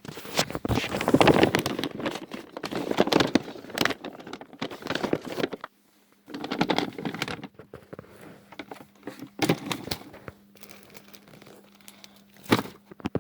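Plastic bag crinkling and rustling as it is handled and rummaged through, in dense bursts with a short break about six seconds in, then lighter scattered rustles.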